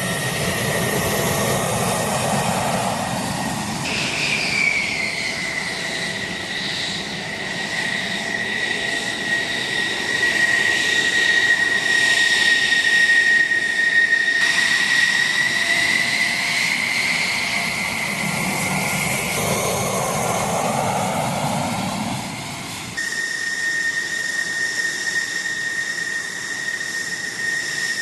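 Military jet aircraft engines with a steady high-pitched whine over a rushing roar that swells and fades as aircraft pass. The sound changes abruptly a few times, about 4 seconds in and again near the end.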